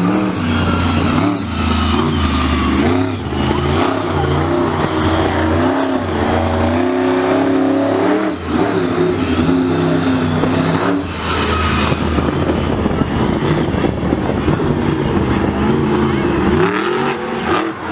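Loud motorsport engines running and revving, their pitch repeatedly rising and falling.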